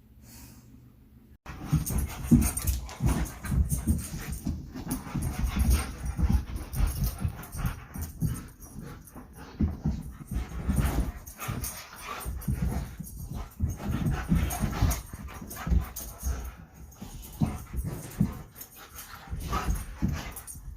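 German Shepherd dogs making noise close to the microphone, starting suddenly about a second and a half in and going on in irregular, uneven bursts.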